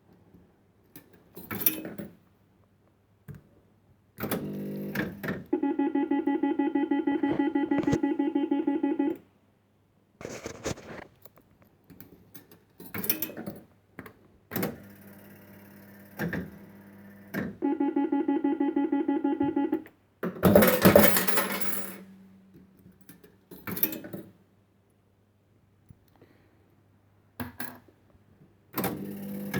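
A 1970s penny-play fruit machine being played: mechanical clicks and knocks, twice a fast-pulsing electronic tone lasting a few seconds, and a loud clatter a little after two-thirds of the way through, over a faint steady hum.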